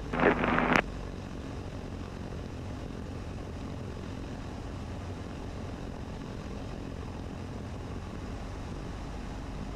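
Cessna 150's four-cylinder Continental O-200 engine and propeller droning steadily in flight, heard from inside the cockpit.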